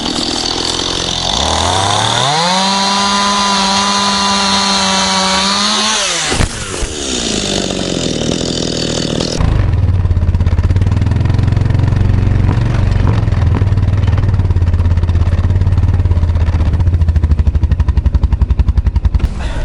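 Stihl MS211C chainsaw revved up from a low run to full throttle, held there for about four seconds, then let back down, with a knock about six seconds in. After about nine seconds it gives way suddenly to a loud, lower, steady engine drone that pulses near the end.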